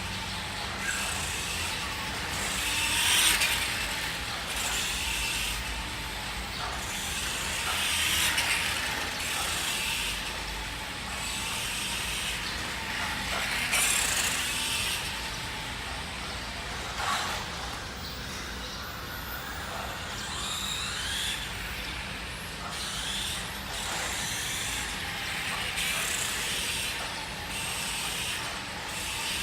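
Nikko 1:5 scale RC Ducati motorcycle's electric motor and gearbox whirring as it runs, swelling and easing again every few seconds, with its freshly repaired transmission.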